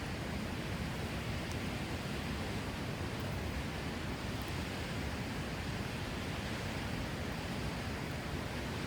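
A steady, even rushing noise with a few faint, sparse clicks.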